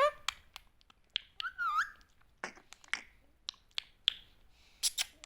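Ringneck parrot making short sharp chirps and clicks, with a brief warbling call about a second and a half in and a couple of harsher squawks near the end.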